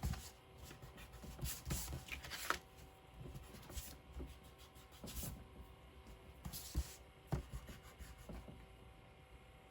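Paper and scrapbooking supplies being handled on a work table: intermittent rustling and rubbing of paper, with a few light taps and knocks.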